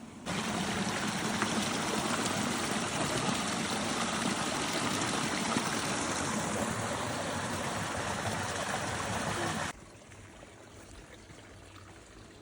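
Stream water running, a steady rushing that cuts in abruptly and stops just as abruptly after about nine seconds, leaving a faint background hiss.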